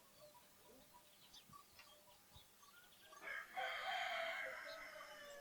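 A rooster crowing once: a single drawn-out call that starts about three seconds in and trails off near the end, over faint chirps of small birds.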